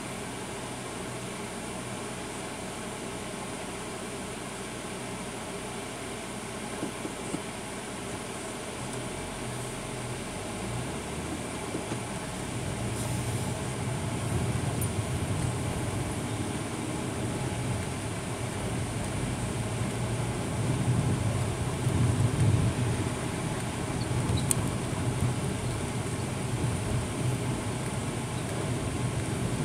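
Truck driving along a city street, heard from inside the cab: a steady hum and hiss at first, then the engine and road rumble grow louder from about ten seconds in.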